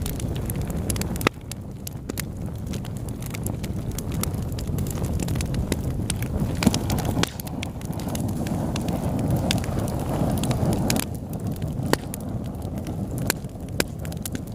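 Fire burning in a fireplace: a steady low rumble with frequent, irregular sharp crackles and pops, one louder pop about a second in.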